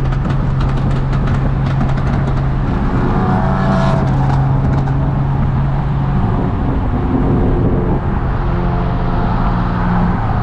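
Car engine running at steady revs, a constant deep drone with road and wind noise; a slightly higher tone joins near the end.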